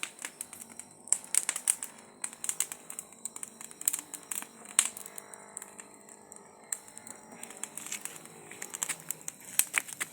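Wood bonfire crackling: irregular snaps and pops, with a few louder cracks scattered through.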